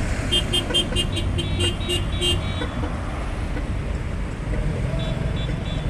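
Rapid string of short car-horn toots, about four a second for the first two seconds, over the steady low rumble of slow-moving car traffic; a few fainter toots come again near the end.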